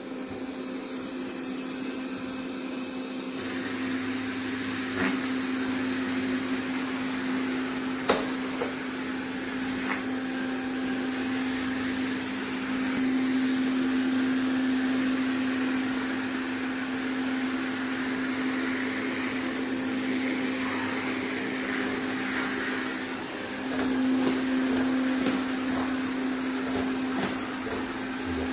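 iRobot Roomba Plus 405 Combo robot vacuum-mop system running: a steady motor whir over a constant low hum that starts abruptly, with a few sharp clicks in the first third.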